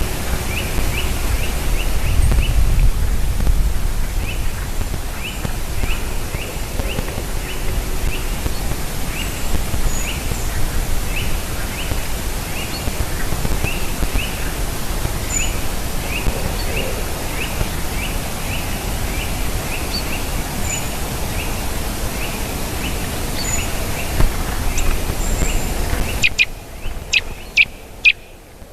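A bird calls a short, sharp note over and over, about one or two a second, over a steady background hiss and low rumble. Near the end the background drops away and a quick run of four or five louder, sharper clicks or calls follows.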